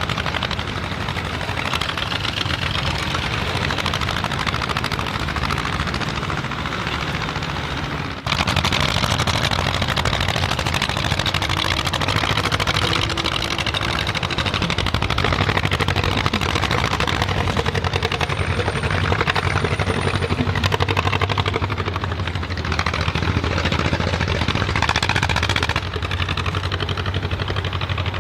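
Zetor 25 tractors' two-cylinder diesel engines running as they drive by. The sound breaks off abruptly about eight seconds in and comes back louder.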